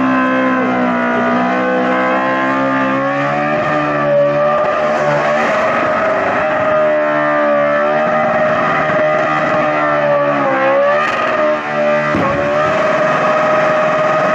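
NASCAR pushrod V8 held at very high revs during a burnout, its pitch wavering around the limit. It drops briefly about ten seconds in and again near twelve seconds, then climbs back up.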